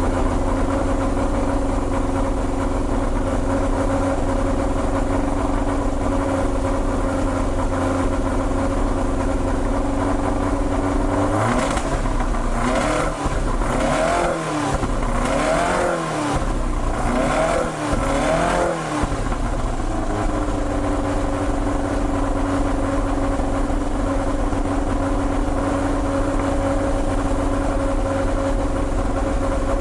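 20-valve 4A-GE four-cylinder engine idling through a current-model 86/BRZ muffler, blipped up and back down several times in quick succession in the middle before settling back to a steady idle.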